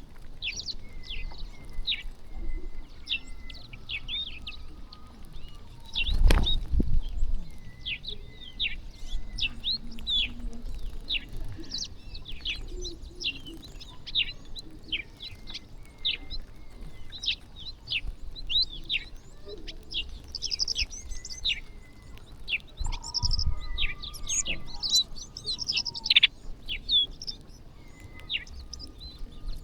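A flock of small birds chirping busily while feeding, many short, sharp, downward-sweeping chirps overlapping one another. A loud low thump comes about six seconds in and a softer one later.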